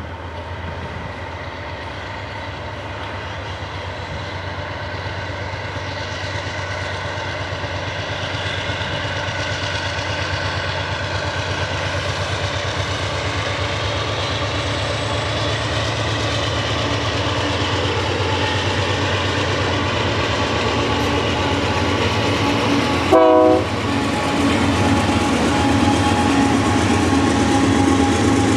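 Diesel-hauled freight train approaching and passing, its engines and wheels growing steadily louder, with one brief horn toot near the end.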